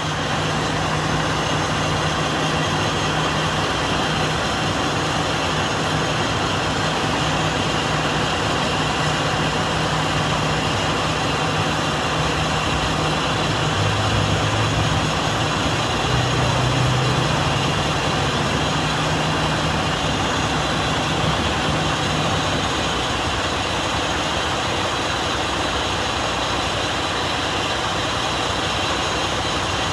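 Heavy vehicle engine idling with a steady low hum that swells briefly midway and cuts out about two-thirds of the way through, over continuous street noise.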